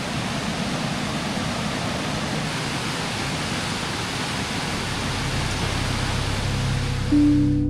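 Mountain creek water running with a steady rush. Soft music comes in near the end.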